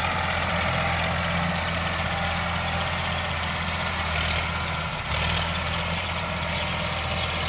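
Sonalika DI 745 tractor's diesel engine idling steadily, with a brief dip about five seconds in.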